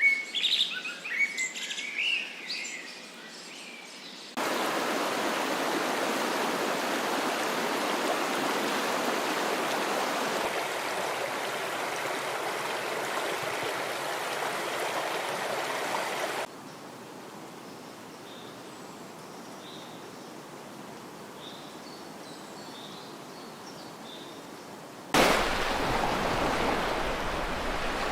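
Birds chirping for a few seconds. The sound then cuts abruptly to a steady rushing noise, drops to a quieter rush with faint scattered bird chirps, and rises again to a louder rush near the end.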